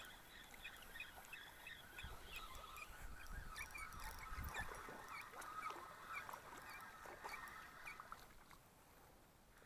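Faint, short bird calls repeated roughly twice a second, with a few low knocks a couple of seconds in.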